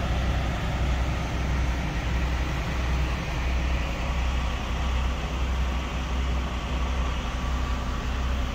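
Semi-truck's diesel engine idling, a steady low rumble with an even hiss above it.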